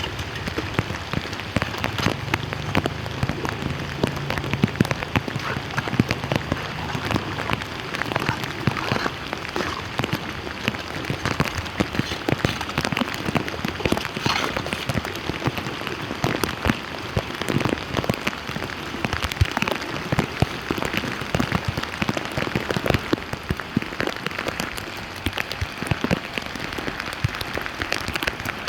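Steady rain falling on a flooded street, with many separate drop impacts close by.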